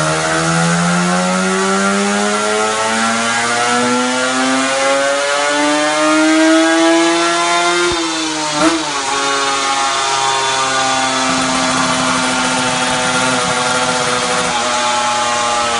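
Two-stroke motorcycle engine on its original intake, cylinder and exhaust, revved slowly and evenly higher for about eight seconds, then dropping back. It gives one quick blip of the throttle, then holds a steady raised rpm that sags slightly near the end.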